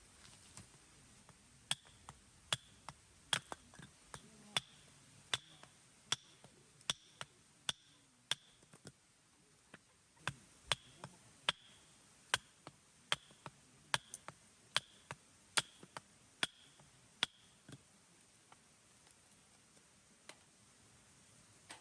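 A steady series of about twenty sharp knocks, roughly one every second, each with a brief high ring, like chopping strokes; they pause briefly in the middle and stop a few seconds before the end.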